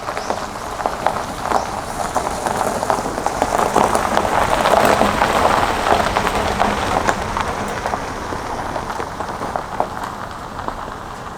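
Rain falling, a dense spray of small ticks that cuts in suddenly, swells toward the middle and fades out near the end.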